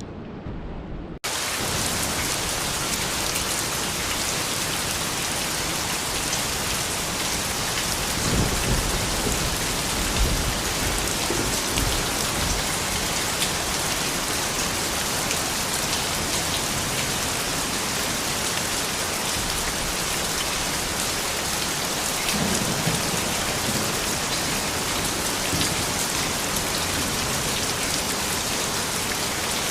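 Steady rain falling, a dense even hiss that cuts in fuller and louder about a second in. A few low rumbles swell and fade in the middle and again about three quarters of the way through.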